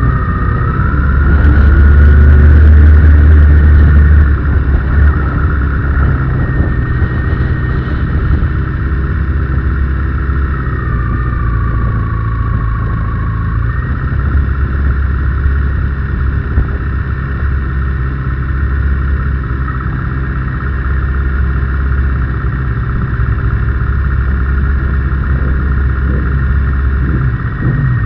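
Kawasaki ZX-6R's inline-four engine heard onboard at low, part-throttle revs as the bike rolls slowly along with other race bikes, over a deep steady rumble. A high steady whine rides above it, sagging in pitch for a few seconds near the middle and then coming back up.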